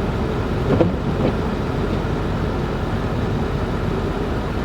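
Steady motor vehicle engine and road noise, a continuous low rumble with no change in pace.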